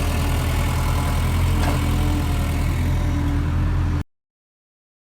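Tractor engine idling steadily, then the sound cuts off abruptly about four seconds in.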